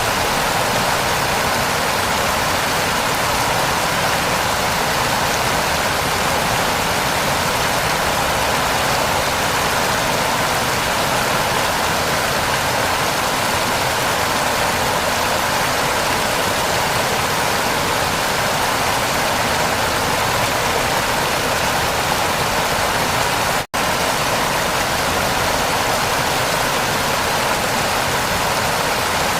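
Heavy rain falling, a steady dense hiss. About three-quarters of the way through, it cuts out for an instant and comes straight back.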